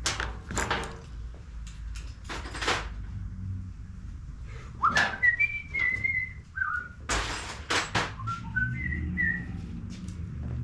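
A person whistling a short tune in two phrases of stepping notes, among sharp knocks and clatter of tools and parts being moved about on a workbench.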